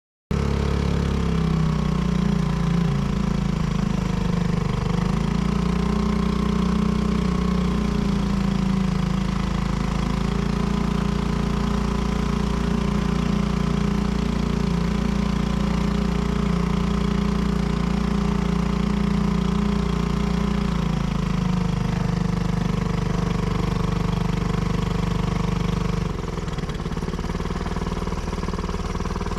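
Boat engine running steadily, shifting in pitch a few times and easing slightly near the end.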